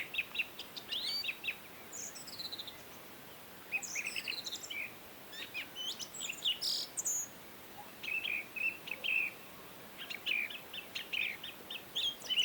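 Several wild songbirds chirping, with quick runs of short repeated notes and a few falling whistled phrases. Under them is a faint, steady rush of a valley stream.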